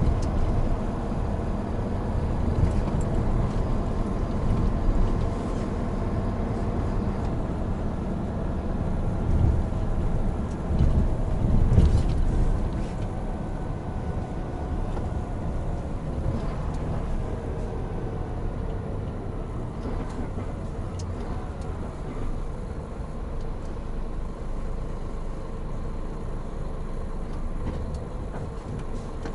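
Hino Profia heavy truck's diesel engine running under way, with road noise. It swells louder about ten to twelve seconds in, then the engine note slowly falls.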